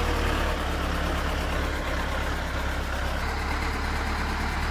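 Air-cooled four-cylinder diesel engine of a Vladimir T-40 tractor running steadily, with a low, even hum.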